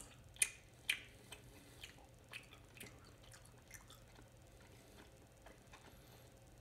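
A person chewing Welch's gummy fruit snacks with the mouth close to the microphone: wet, sticky clicks about two a second. They are loudest in the first second and fade out after about four seconds.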